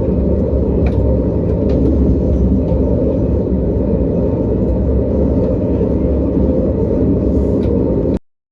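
Loud, steady low rumble that cuts off abruptly near the end.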